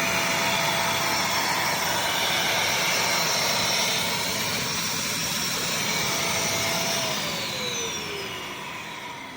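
Bissell CrossWave HydroSteam wet-dry vacuum running with a steady whine, then switched off about seven seconds in, its motor pitch falling as it winds down.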